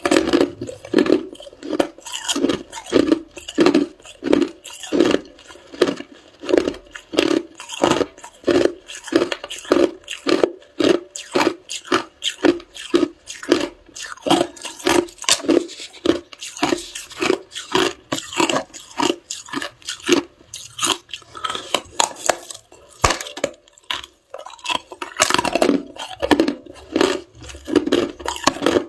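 A person chewing hard ice, each bite a loud crunch, in a steady rhythm of about one and a half crunches a second.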